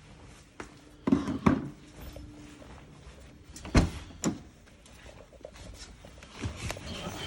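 Four dull knocks and thuds, two close together about a second in and two more near the middle, then softer clatter near the end, like handling around a car door or cabin.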